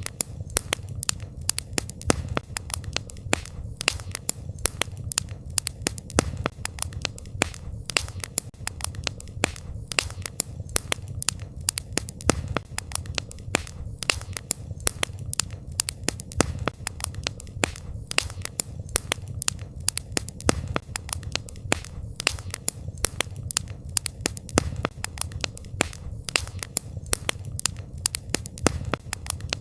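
Wood fire crackling continuously, with many irregular sharp pops several times a second over a low steady rumble.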